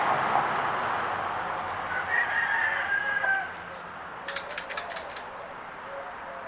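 Passing traffic fades away while birds call, with a few short whistled notes. About four seconds in comes a quick rattling run of roughly eight sharp clicks, lasting about a second.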